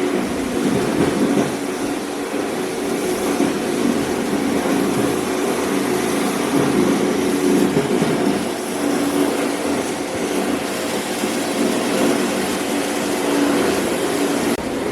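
A machine running steadily: a constant hum with a broad rushing noise.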